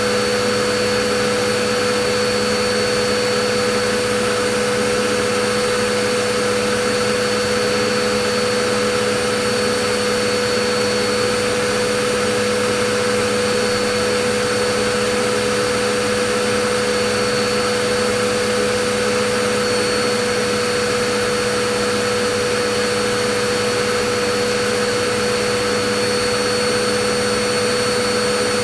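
Vacuum cleaner motor running steadily, a constant whooshing hum with a steady whine and no change in pitch or level.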